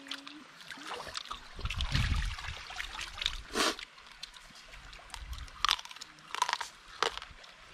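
A person biting and chewing grilled pork, with scattered short crunches and mouth clicks. The loudest crunch comes about three and a half seconds in.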